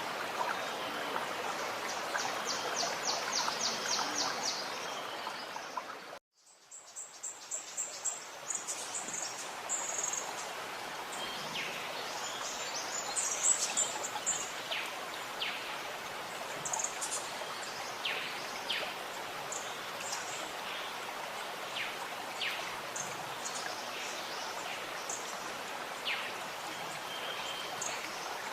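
Running water gurgling steadily while small birds sing and chirp, with a rapid trill of repeated high notes early on. About six seconds in the whole sound cuts out abruptly, then fades back up.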